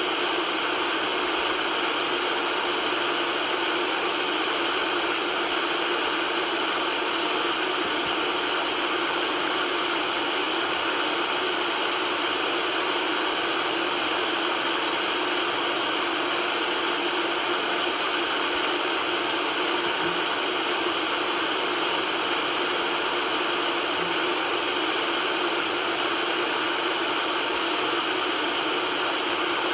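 Steady white-noise hiss, even and unchanging, spread across the middle and high pitches with little deep bass.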